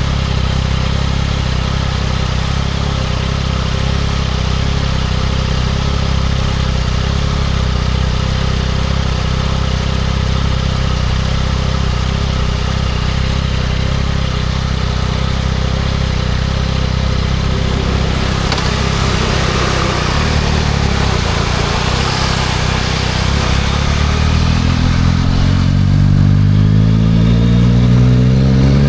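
2024 Yamaha MT-09 SP's inline three-cylinder engine with a Spark aftermarket exhaust, running steadily at low revs, then rising in pitch and getting louder as the bike accelerates over the last few seconds.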